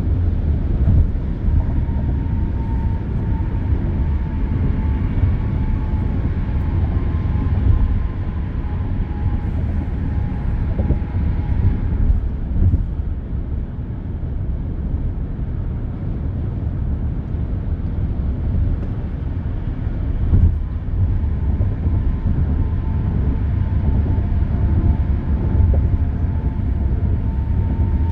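Steady road noise of traffic on an expressway: a continuous low rumble, with a faint high whine that fades out about halfway through and returns near the end.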